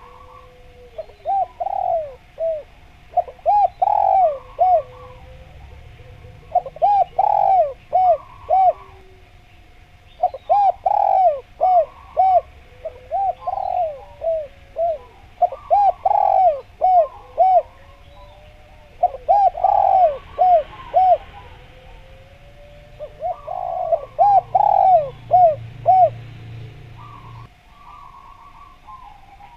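Spotted dove (derkuku, tekukur) calling vigorously: bouts of several quick coo notes, repeated about every three seconds.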